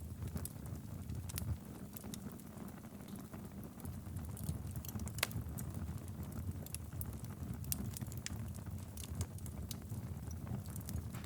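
Wood fire burning steadily in a fireplace: a low, even rumble of the flames with irregular sharp crackles and pops, one louder pop about five seconds in.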